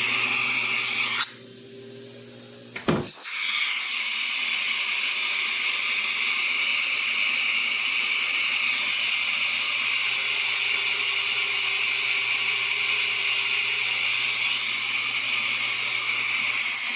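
Central vacuum suction hissing steadily through a working water lift gauge on a wall inlet, with a low hum underneath. About a second in, the hiss drops away for a moment; a click comes near three seconds, and then the steady hiss resumes.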